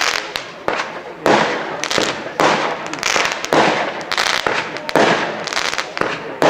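Fireworks display: a rapid barrage of firework bursts, about two loud bangs a second, each trailing off over about half a second.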